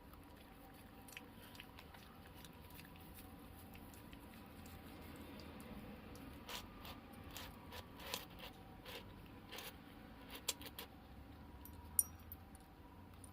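Cat chewing and biting off cat grass: a faint run of small crisp crunches and clicks, thickest past the middle, with one sharper click near the end.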